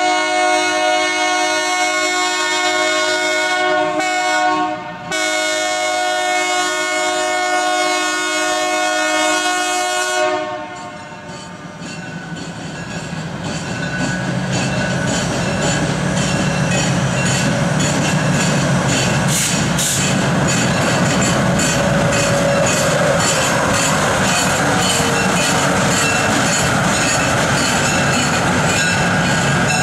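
Diesel locomotive horn sounding a long blast, broken briefly about four seconds in, that stops about ten seconds in. Then a freight train of covered hopper cars rolls past, its wheels clicking evenly over the rail joints above a steady rumble that builds and holds.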